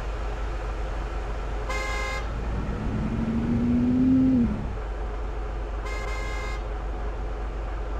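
Heavy truck engine running with a steady low rumble, rising to a louder revving whine that climbs in pitch and drops away about four and a half seconds in. A vehicle horn gives two short toots, about two seconds in and about six seconds in.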